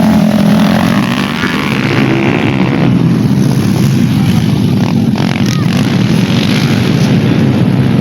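Dirt-bike engines running loudly on a race track.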